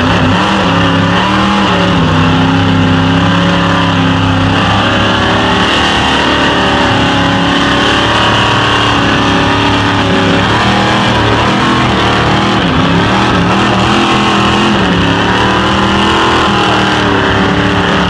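Loud truck engine running hard at high revs with no break, its pitch shifting up and down.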